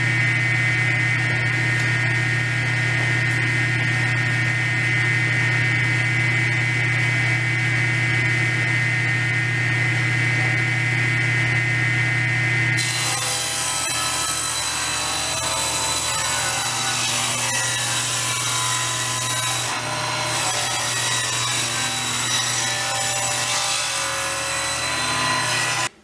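Electric power saw running steadily, then cutting through wood from about halfway in, which brings a brighter, harsher sound; it stops abruptly at the end.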